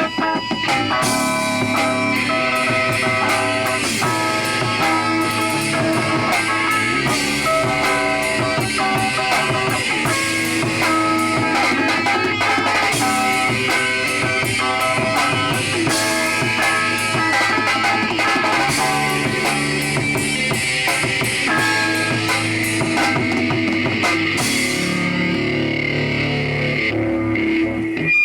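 Live rock band playing a song on drum kit, electric guitar and bass.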